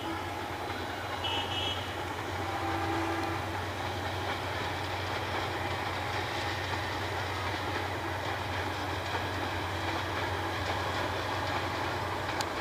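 Diesel-hauled passenger train passing at a distance: a steady rumble of the locomotive and the rolling coaches on the track. A short, high-pitched toot sounds once about a second and a half in.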